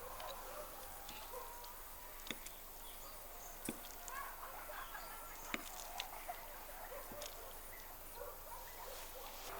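Quiet outdoor background with faint bird chirps and a handful of sharp clicks scattered through it.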